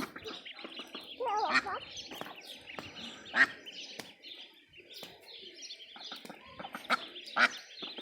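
Domestic ducks and a large brood of ducklings calling: a steady scatter of high ducklings' peeps, with a wavering call about a second and a half in and a few sharp, louder adult calls, the loudest about three and a half and seven and a half seconds in.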